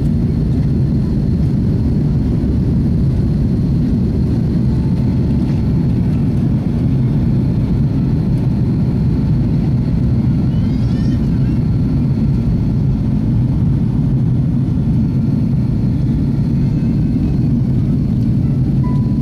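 Airliner cabin noise: the jet engines and the rush of air past the fuselage heard from inside the cabin as a steady, deep, even drone.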